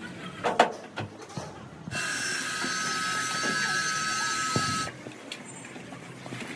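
A steady hiss with a thin high whistle through it, starting about two seconds in and cutting off abruptly some three seconds later, among a few light clicks and knocks.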